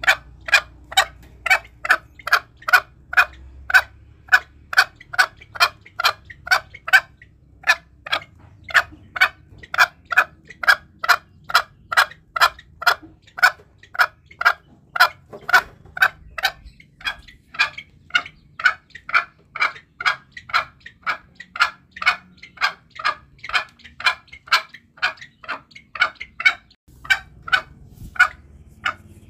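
Green junglefowl calling: a rapid, even run of short calls, about three a second, pausing briefly twice. This is a lure recording used to provoke wild junglefowl when hunting.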